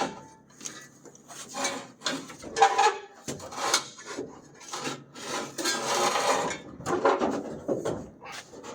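Irregular scraping, rubbing and knocking of metal and rubber parts being pulled and worked loose by hand while the dash and steering parts are stripped out of a 1965 Chevrolet C10 truck cab.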